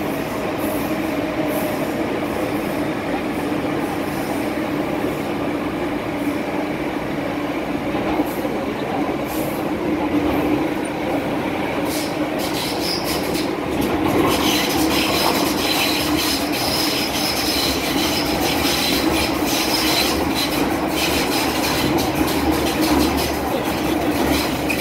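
MTR M-Train electric multiple unit running through a tunnel, with a steady rumble and a low hum. About halfway through a high screech of wheels on rail joins in and continues.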